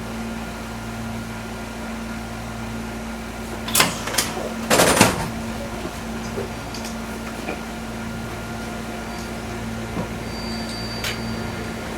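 Steady electrical hum inside a Fukui Railway 200 series electric railcar. A few sharp, loud clatters come about four to five seconds in, and a brief high tone near the end.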